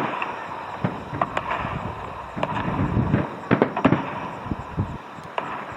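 Fireworks bursting: a string of sharp pops and cracks at irregular intervals over a steady background rush.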